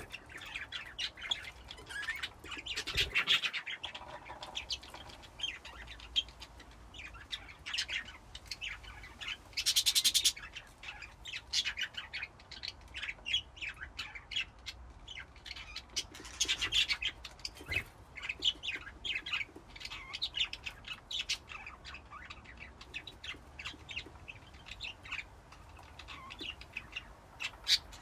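A colony of budgerigars chirping and chattering in many short, overlapping calls, with a louder burst of calls about ten seconds in.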